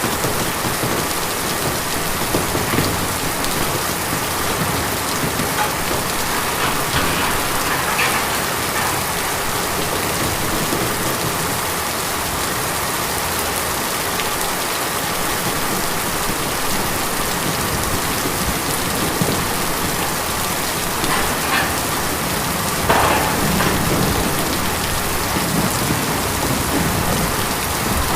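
Steady rain on a tin roof: a constant even hiss with a few heavier drops standing out now and then, the loudest near the end.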